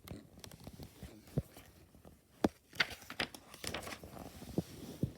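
Paper pages of a picture book handled and turned: a run of rustles, crinkles and sharp clicks, busiest in the second half.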